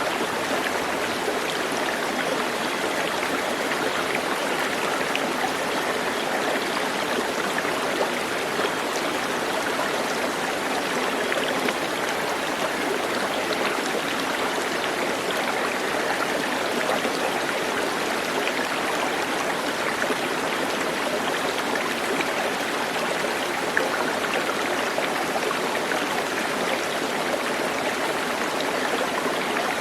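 Running water, a steady unbroken rush like a stream flowing over stones.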